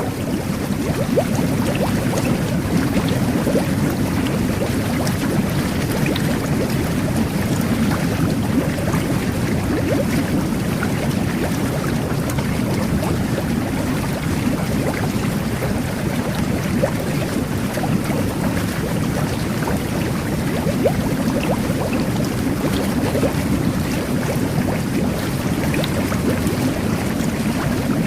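Jet bath (whirlpool tub) running steadily: bubbling, churning water from the jets, with a dense crackle of bursting bubbles over a deep rumble.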